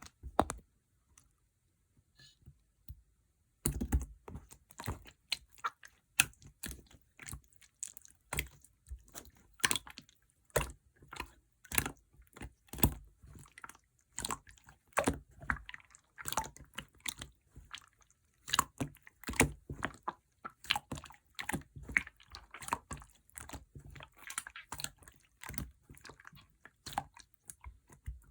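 Clear slime being squished and pressed by hand: a dense, irregular run of sharp wet clicks and pops, starting about three and a half seconds in.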